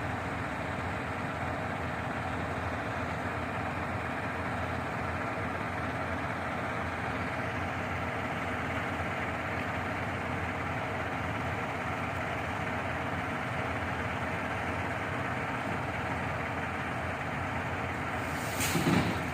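Shingle delivery truck's engine running steadily at idle, a continuous low hum, with a brief knock near the end.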